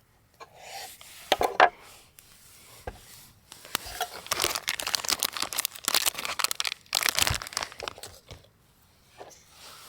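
Packaging being handled and crinkled: a few sharp clicks and rustles, then several seconds of dense crinkling from about three and a half seconds in, dying away near the end.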